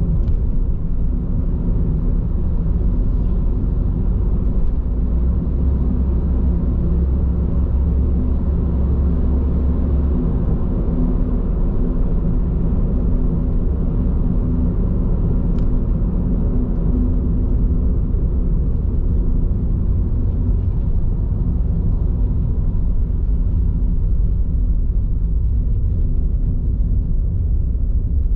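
Steady low road and tyre rumble heard inside a moving car's cabin on Bridgestone Regno tyres, with a deeper drone from about four to ten seconds in.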